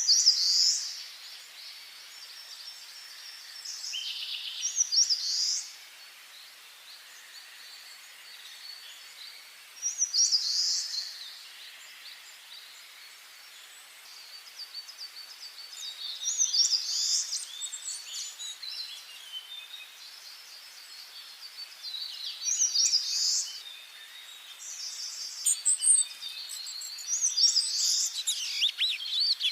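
Songbirds singing: loud trilling song phrases every few seconds, with fainter calls and a soft hiss between them.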